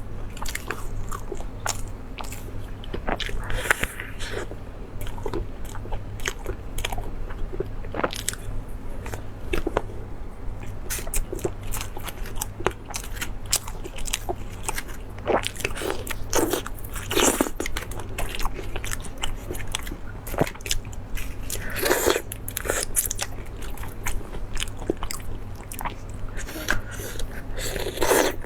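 A person eating crunchy food close to the microphone: irregular crisp bites and crunches with chewing in between.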